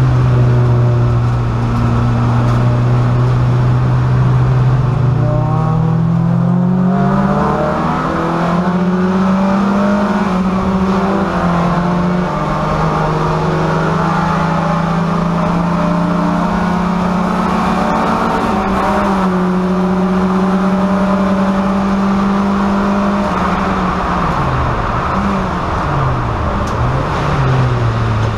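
VW Golf race car engine under load, heard from inside the stripped cabin. It holds steady revs, climbs about five seconds in, steps between two pitches through the middle, then near the end the revs drop and pick up again several times before rising once more.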